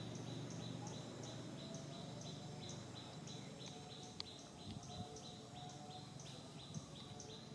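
Outdoor ambience dominated by a steady, rhythmic run of short high-pitched chirps, about three a second, over a low hum, with a few faint clicks.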